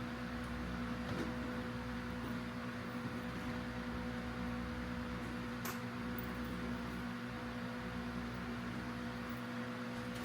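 Steady electric hum with a faint airy whir, like a running fan or air-conditioning motor in a small room, and a faint click about six seconds in.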